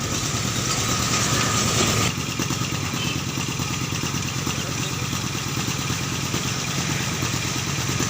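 Motorcycle engine idling steadily, with a loud hiss over it that cuts off about two seconds in.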